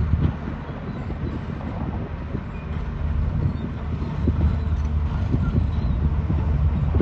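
Heavy diesel earthmoving machine running, its engine a steady low drone.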